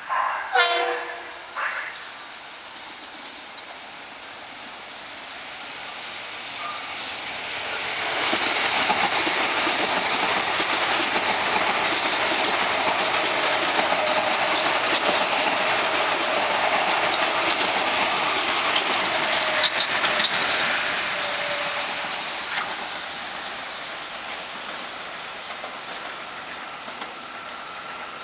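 Metro-North M8 electric multiple-unit train running through the station: rail and wheel noise builds from about six seconds in, stays loud with a faint steady hum for over ten seconds, then fades away. A brief high-pitched sound comes in the first two seconds.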